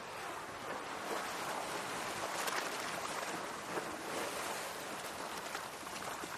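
Mediterranean sea waves washing in, a steady hiss that swells about a second in and eases near the end, with faint crackling ticks through it.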